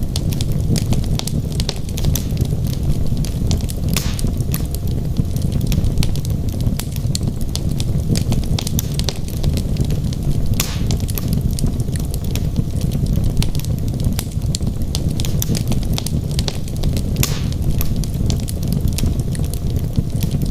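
Wood fire burning in a fireplace: a steady low rumble of flame with constant crackling and a few louder pops from the logs.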